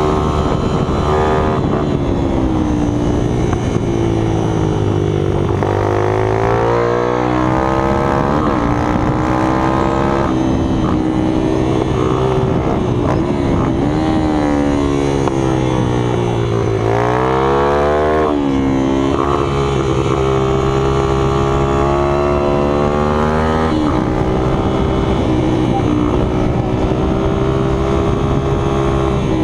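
Small minibike engines running at high revs, their pitch dipping and climbing several times, with more than one engine heard at once at times.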